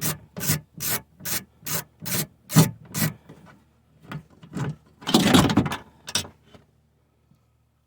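Hand ratchet with a 10mm socket being worked back and forth to back out a window regulator bolt: a run of rasping strokes about two and a half a second, stopping about three seconds in, then a few slower strokes and one longer rasp around five seconds in.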